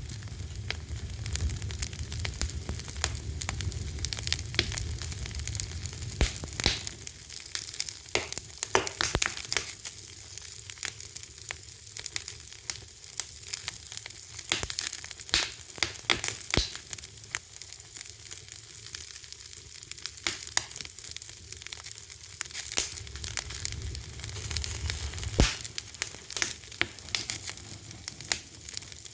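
Wood fire crackling: a steady hiss with dense, irregular snaps and pops, a few sharper ones standing out, over a low rumble that fades after the first several seconds and returns later.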